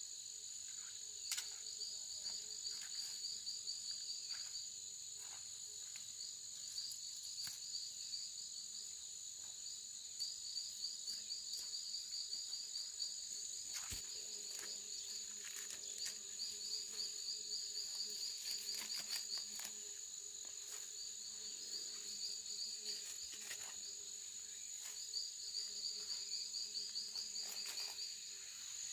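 Insects calling: one holds a steady high buzz, while another trills in rapid pulsed bouts a few seconds long with short pauses between. Scattered light clicks and knocks are heard over them.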